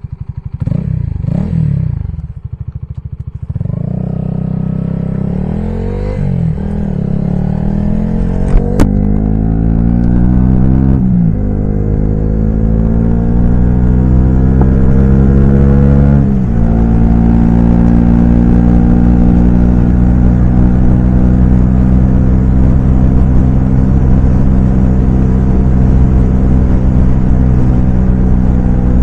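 Honda CB125R's single-cylinder engine, fitted with a LeoVince LV ONE Evo exhaust, pulling away and accelerating through the gears. The pitch climbs and drops back at two gear changes, about 11 and 16 seconds in, then holds steady while cruising.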